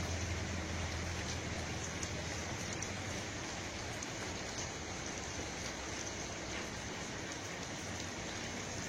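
Steady, even rushing hiss with faint scattered ticks, like rain falling; a low hum fades out about a second or two in.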